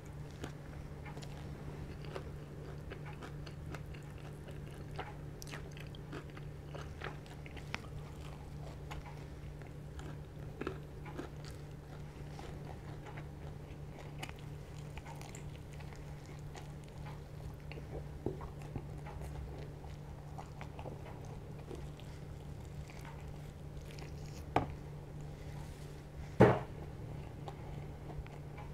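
Close-up chewing and biting of fried chicken: small wet mouth clicks and light crunches over a steady low hum, with two sharper clicks near the end, the second the loudest.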